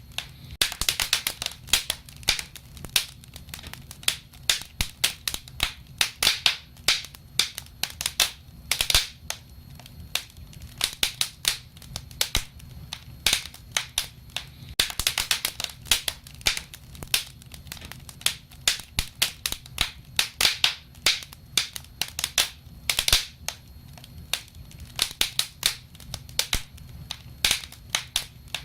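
Wood fire crackling and popping: irregular sharp snaps, some in quick clusters, over a faint low rumble of flames.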